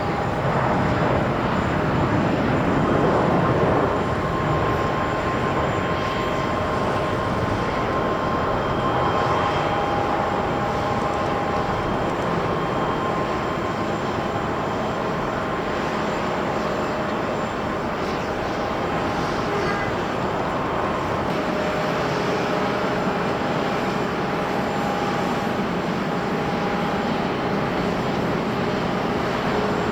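Jet airliner turbofan engines on a landing at a busy airport: a steady, continuous engine noise with a whine in several held tones. About two-thirds of the way through, the sound changes as the next landing airliner takes over.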